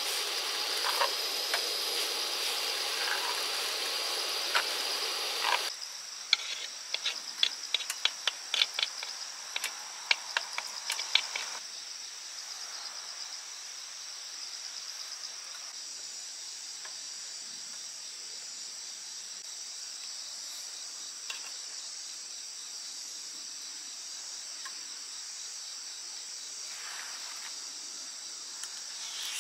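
Egg and rice frying in a griddle pan on a gas camping stove, sizzling for the first six seconds or so, followed by a run of sharp clicks and scrapes as a metal spoon works against the pan. Insects chirp steadily throughout.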